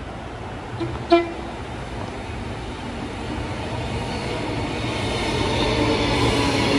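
Train horn giving a brief toot about a second in, after a fainter one just before it, then the train approaching and growing steadily louder.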